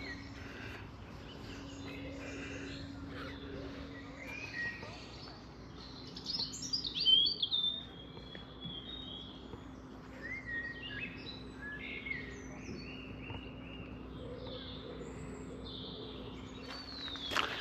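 Several songbirds singing and calling, short phrases overlapping throughout, with one loud song of quickly falling notes about seven seconds in. A faint steady low hum runs underneath.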